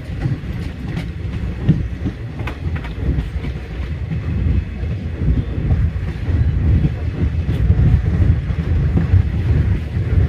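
Passenger train running, heard from the open doorway of a moving coach: a steady low rumble of wheels on rails, with a few sharp clicks from the wheels.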